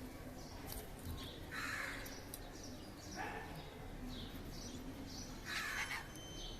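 Budgerigars chattering: a run of short high chirps, broken by three louder, harsher calls about a second and a half in, about three seconds in and near the end.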